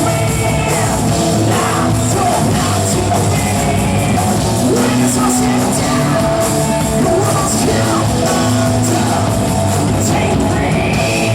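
Rock band playing live, with a singer's voice over the guitars, bass and drums.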